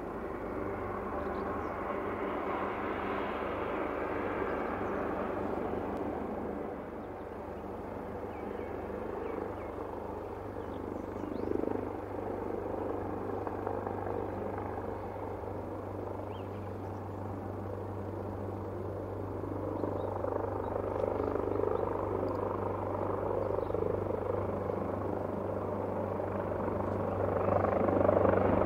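AgustaWestland AW139 helicopter with its twin turboshaft engines and rotor running steadily, with a constant low hum under a wide rushing noise. It grows louder near the end.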